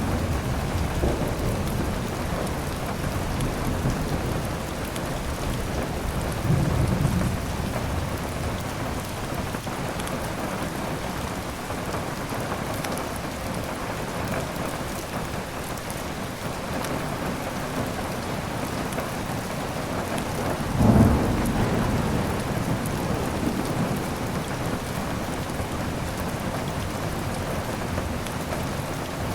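Steady heavy rain with thunder rumbling twice, a shorter roll about 7 s in and a louder one about 21 s in. Faint fire crackles sound over the rain.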